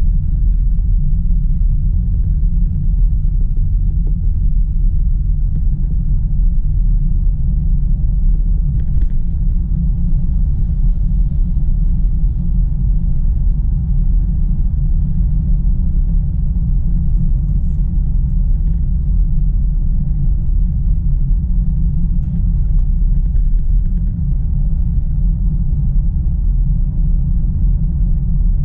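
Steady low rumble of tyre and road noise inside a Tesla's cabin as it drives slowly on rain-soaked roads, with a faint steady hum.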